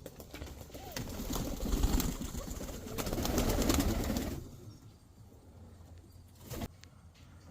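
Pigeons cooing in an aviary, with rustling and sharp clicks and clatter over the first four seconds or so; then it goes quieter, broken by one short knock about six and a half seconds in.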